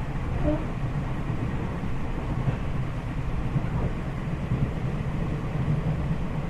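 A train running, a steady low rumble of rolling noise with no change in level.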